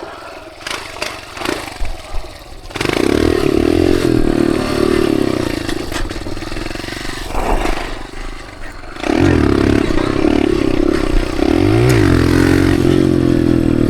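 Dirt bike engine, quieter with some clatter at first, then revving hard and pulling about three seconds in; it eases off briefly a little past the middle, then revs up again with the pitch rising and falling.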